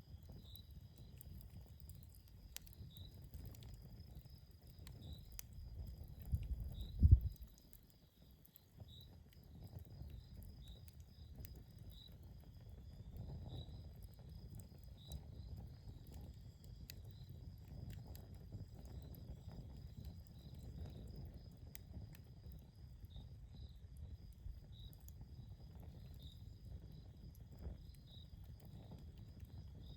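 Outdoor campfire ambience: crickets chirping steadily in regular pulses over a low rumble, with scattered faint crackles of the fire. About seven seconds in there is a brief loud low rumbling thump, the loudest sound.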